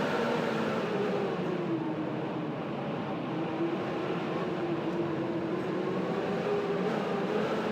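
Blizzard wind blowing steadily, a rushing noise with faint, slowly wavering whistling tones over it.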